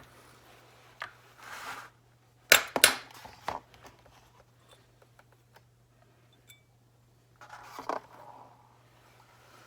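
Clicks and clatter of small metal carburetor parts being handled as a motorcycle carburetor is taken apart, with two sharp knocks about two and a half seconds in and a few softer handling noises. A steady low hum runs underneath.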